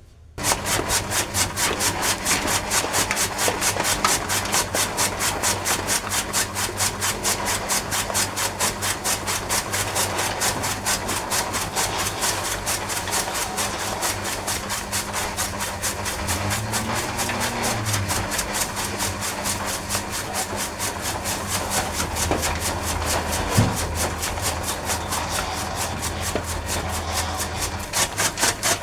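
Motorised chaff cutter running and chopping grass and Napier grass for cattle feed: a fast, even chatter of cutting strokes, several a second, over a steady motor hum.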